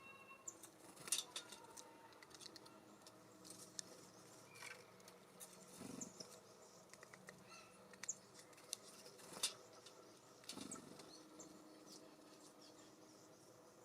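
Faint, scattered taps and scratches of small birds feeding at a seed and suet feeder, with a few brief high chirps.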